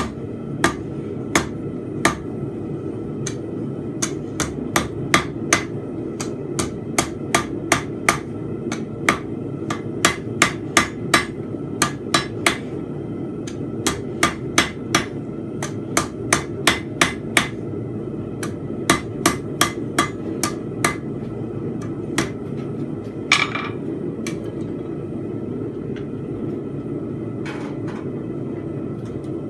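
Blacksmith's hammer striking a steel bar on the anvil while forging a fence peg. The blows come in irregular runs of a few at a time and stop about 21 seconds in, followed by two separate longer clangs, all over a steady low rumble.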